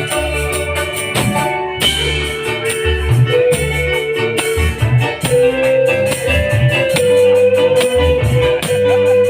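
Band music played loud: an electronic organ or keyboard holds a long melody line over a steady beat of drums and bass.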